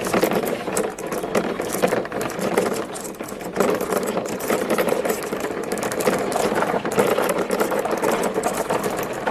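Many marbles rolling and clattering down plastic marble-run track: a continuous rolling rumble dotted with rapid clicks, easing briefly about three seconds in before picking up again.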